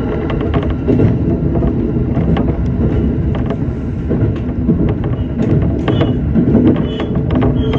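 Electric multiple-unit train running along the line: a steady low rumble heard from inside the front of the car, with many small clicks and knocks from the wheels and track.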